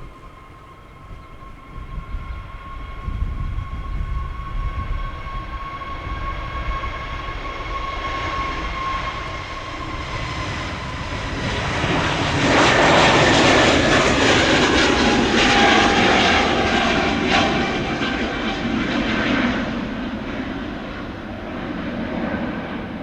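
Jet airliner's engines passing close by on departure. A high whine dips slightly in pitch, then a loud roar builds and fades near the end, over wind rumbling on the microphone.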